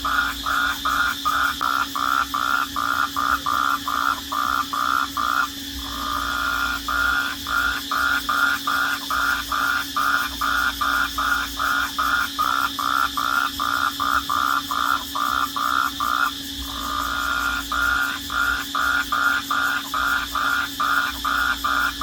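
Night chorus of calling animals: a loud chirp pulsing about three times a second, breaking off briefly twice, over a steady high trill and a low steady hum.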